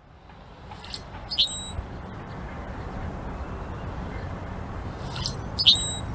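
Birds calling: two pairs of short, sharp chirps, about a second in and again near the end, over a steady low outdoor ambience that fades in at the start.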